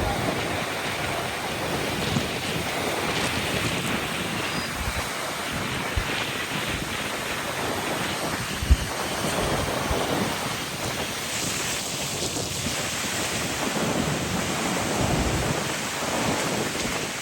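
Stormy sea: waves breaking and surging in strong wind, with wind buffeting the microphone. There is a sharp thump about halfway through.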